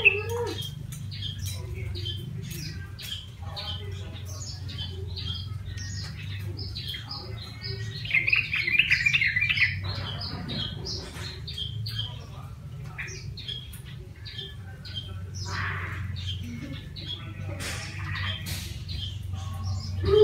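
Yellow-vented bulbul (trucukan) calling: a string of short chirps and chattering notes, with a louder burst of chattering about eight to ten seconds in. A steady low hum runs underneath.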